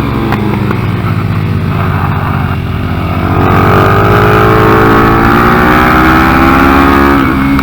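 Single-cylinder four-stroke engine of a Yamaha TTR125-based 150 big-bore mini racing bike under way. The revs ease off for a couple of seconds, then climb steadily for about four seconds under throttle, and drop again near the end.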